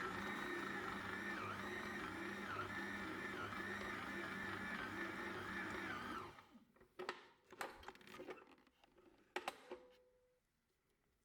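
Electric mixer motor running steadily with a whine, switched off about six seconds in, followed by a few light clicks and knocks.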